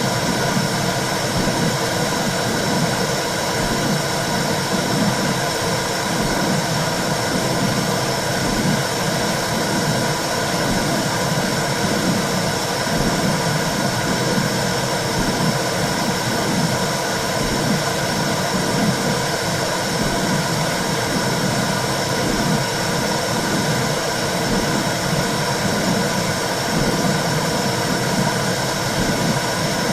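Womb-sound track for soothing babies: a steady whooshing hiss with a regular low pulsing, like blood flow and heartbeat heard from inside the uterus.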